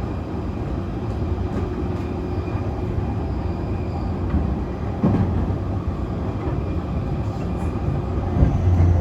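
Cabin running sound of an E531-series electric multiple unit with Hitachi IGBT-VVVF inverter: steady wheel-and-rail rumble with a faint inverter tone over it. There is a knock about five seconds in and another near the end.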